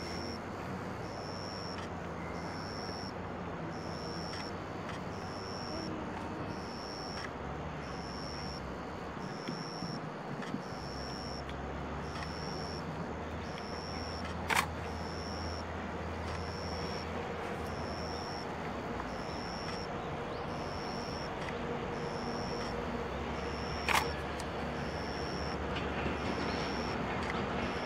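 Trackside outdoor background with a high-pitched chirping that repeats about once a second, and two sharp camera shutter clicks, one about halfway through and one near the end. A low rumble builds near the end as the EF64 1003-hauled freight train approaches.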